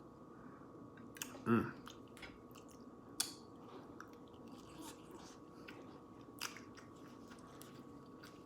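Close-miked chewing and mouth sounds of a person eating, with soft wet clicks and smacks scattered through and a short hummed sound about a second and a half in.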